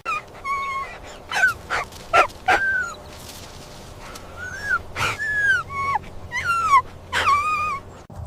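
Animal, most likely a young dog, whining and yelping: a rapid string of short high-pitched calls, many sliding down in pitch, that breaks off abruptly just before the end.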